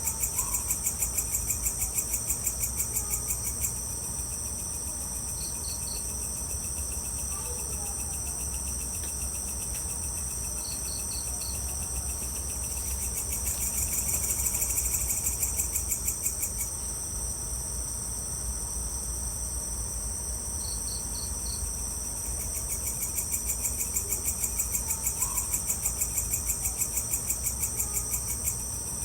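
Evening insects, crickets among them, chirping: a high pulsing trill at about five pulses a second that comes and goes in bouts of a few seconds, with short groups of four quick chirps every few seconds over a low steady rumble.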